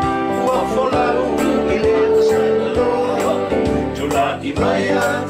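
A Samoan song: voices singing over strummed acoustic guitar at a steady rhythm.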